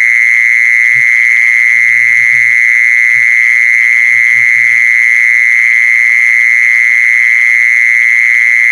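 A loud, continuous, buzzing call of the singing insect known in Thai as 'maeng jee-son', held on one high pitch without a break. A few faint, brief low sounds come and go beneath it.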